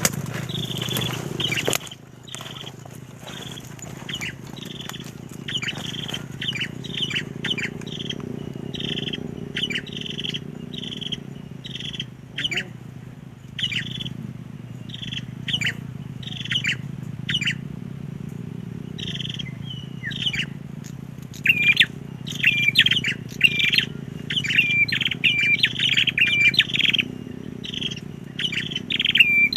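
Prinia (perenjak) calling: sharp, rapid chirps in quick irregular series, growing denser and louder in the second half, over a steady low hum.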